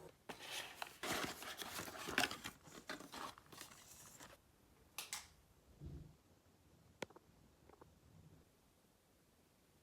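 Packaging of a new lightbulb being torn open and crinkled for about four seconds, followed by a few light clicks and taps as it is handled.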